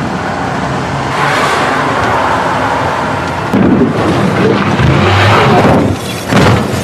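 Film car-chase soundtrack: car engines running under a heavy low rumble, with a sudden loud hit about three and a half seconds in and another surge near the end.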